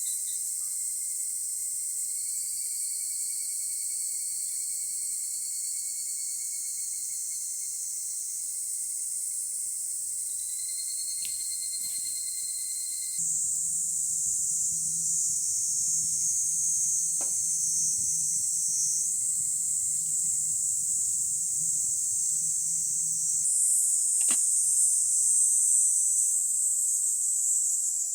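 A dense, steady, high-pitched chorus of insects, with a thinner steady insect tone beneath it. The chorus changes abruptly about halfway through and again later on, with a faint low hum in between and a couple of faint clicks.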